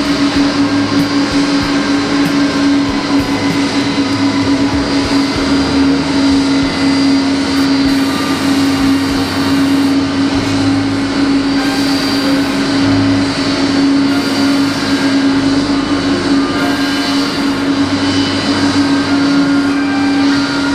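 Jet airliner running steadily: one constant hum over an even rush of engine noise.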